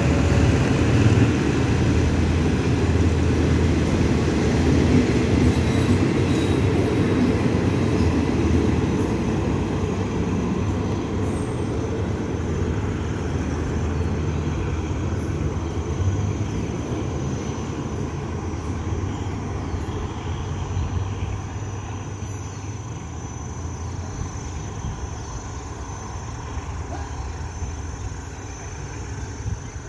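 Passenger train coaches rolling away on the rails as the train pulls out of the station, a low rumble that fades steadily as the train draws off into the distance.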